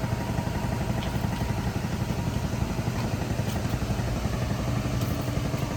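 A motor vehicle engine idling steadily, a low even running sound with a fast fine pulse.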